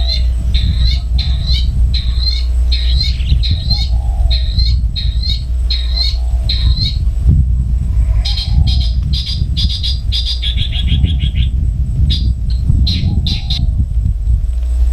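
Long-tailed shrike calling: short notes repeated about twice a second, breaking into a fast run of notes about two-thirds of the way through, then a few more single notes. A steady low rumble runs underneath.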